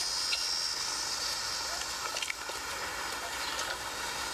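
A steady high hiss of background ambience, with a few faint clicks.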